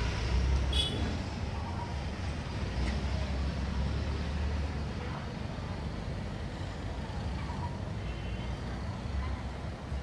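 Urban street traffic: a steady low rumble of passing vehicles, with a short sharp high-pitched sound about a second in.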